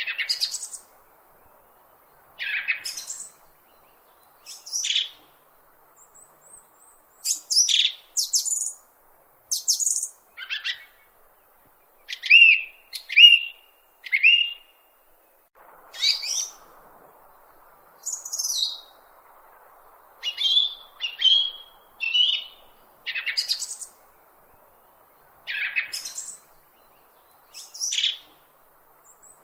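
A bird chirping: short, separate chirps and calls repeating every second or two, some sliding up or down in pitch.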